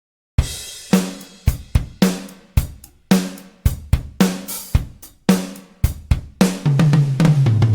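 Toontrack EZdrummer 3 sampled drum kit playing a groove of kick, snare and cymbal hits about twice a second, starting about half a second in. Near the end it breaks into a fast fill stepping down in pitch.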